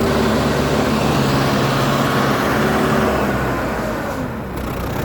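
Diesel tractor engine running loud and steady, easing off slightly about four seconds in.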